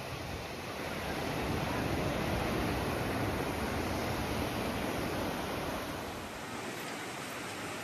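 Sea waves washing onto the beach, the rush swelling about a second in and easing off over the last few seconds, with wind rumbling on the microphone.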